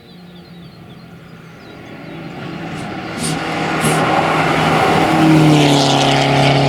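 Fiat Uno Turbo rally car's turbocharged four-cylinder engine approaching under hard acceleration, growing steadily louder over several seconds as it climbs toward the listener.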